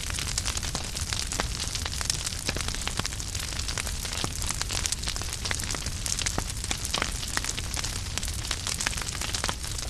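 Wood fire burning with continuous crackling: many short, irregular pops and snaps over a steady hiss and low rumble.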